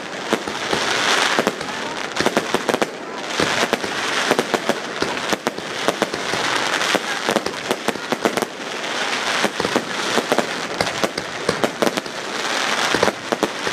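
Aerial fireworks going off: a rapid run of sharp pops and bangs over a dense crackling hiss that swells every few seconds as the glittering white bursts open.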